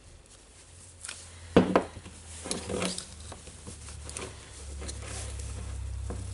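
Hard knocks and clinks of metal parts being handled, the loudest about one and a half seconds in, with a low steady hum coming in past the middle.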